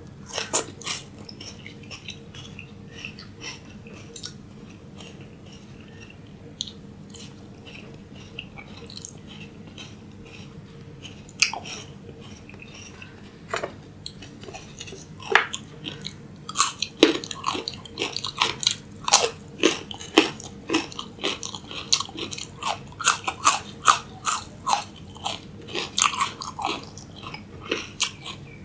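A person biting and chewing raw salad vegetables: a crisp crunchy bite near the start, then quiet chewing, then a few crunches after about eleven seconds that build into steady, rapid crunching of two or three bites a second through the second half.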